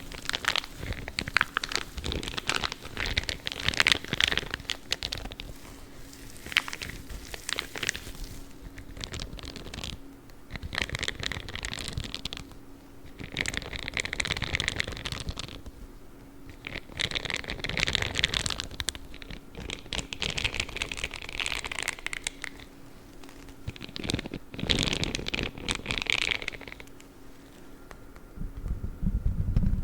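Blue spiky gloves rubbed and scratched close to the microphone, giving crinkly, scratchy rustling that comes in bursts of a second or two. A faint steady hum sits underneath.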